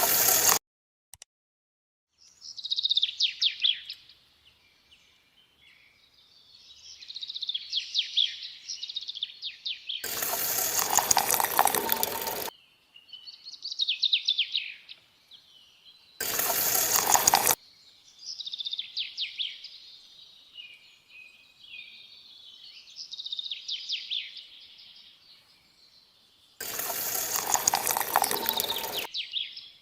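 Birds chirping and singing steadily, broken three times by loud rushing bursts of one to two and a half seconds each, the longest about ten seconds in and again near the end.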